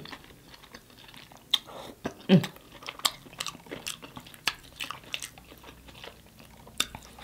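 Close-miked eating of rotisserie chicken: wet chewing and lip-smacking with scattered sharp clicks, and a brief hum a little over two seconds in.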